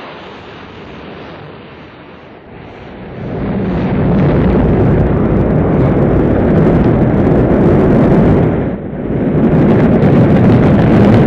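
Space shuttle launch: the rocket engines' rumbling noise builds over the first few seconds to a loud, steady roar, with a short dip near the end.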